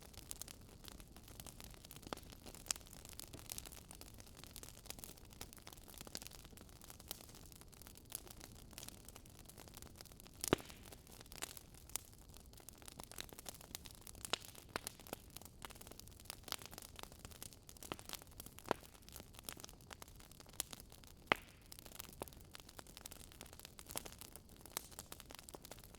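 Wood fire crackling softly: irregular sharp pops and snaps over a low steady hiss, with a couple of louder pops.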